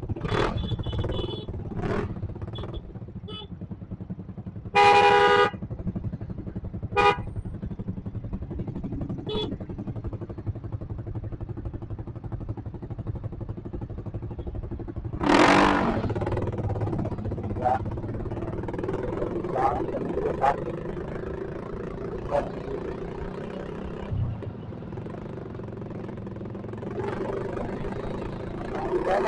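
Motorcycle running on the road, a steady engine hum. A vehicle horn honks for under a second about five seconds in, with short toots a couple of seconds later, and a loud rush of noise comes about fifteen seconds in.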